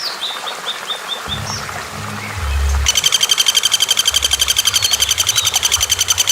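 Recorded wild birdsong: short high whistled chirps in a quick descending series near the start, then from about halfway a fast, even rattling trill of about ten notes a second, over a low background of music.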